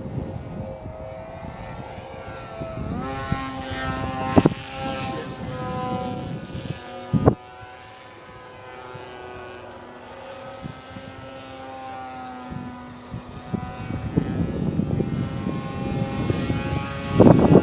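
Motor of a scratch-built F-22 model plane whining in flight, its pitch jumping up about three seconds in and then wavering. Wind buffets the microphone throughout, heaviest near the end, with a few sharp knocks.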